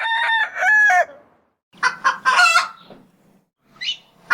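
Rooster crowing: the tail of one long crow ends about a second in, and a second crow follows about two seconds in, with a short high call near the end.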